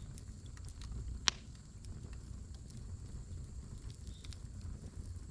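Firewood burning in a brazier, crackling with scattered small pops and one sharp loud pop about a second in, over a low steady rumble.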